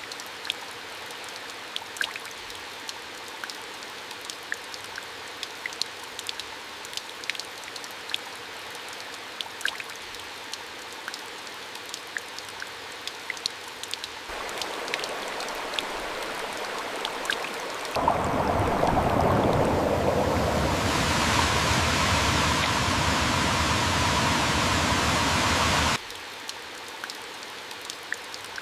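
Steady rain with many small drops pattering. About halfway through, a rushing sound of flowing water comes in, jumps much louder a few seconds later, then cuts off suddenly a few seconds before the end, leaving the rain alone again.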